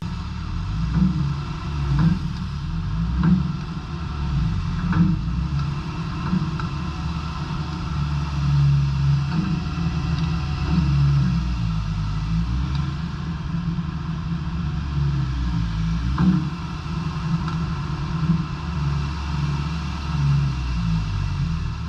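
Diesel engine of a 2004 Komatsu PC160LC-7 hydraulic excavator running steadily, with a few sharp knocks or clanks over it.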